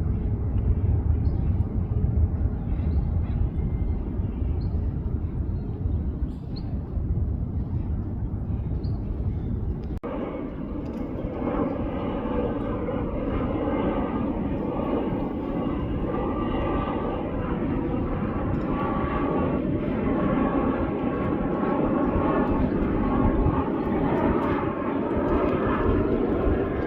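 Jet airliner engine noise: a steady low rumble, then an abrupt change about ten seconds in to a louder engine sound with several steady whining tones over the rumble.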